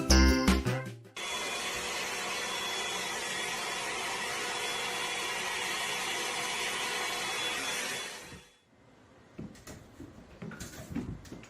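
Music cuts off, then a steady whirring machine noise runs evenly for about seven seconds and stops, followed by faint scattered knocks.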